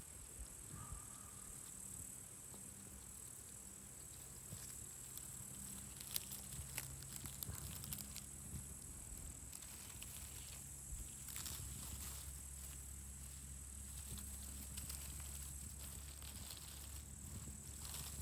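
Insects trilling steadily in a high, even chorus, with scattered soft rustles and clicks close by.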